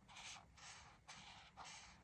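Faint back-and-forth coloring strokes on paper, about two rubbing scrapes a second, four in all.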